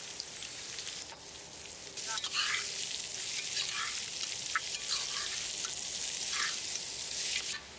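Chopped onions and green chillies sizzling in hot oil in an aluminium pressure cooker. The frying grows louder about two seconds in as a steel ladle stirs them, with short scrapes against the pot, and it cuts off abruptly near the end.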